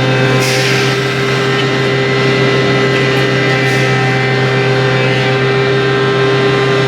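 CNC wood router running steadily, its motor giving a constant hum with a steady whine, broken by short hisses about half a second in and again around three and four seconds in.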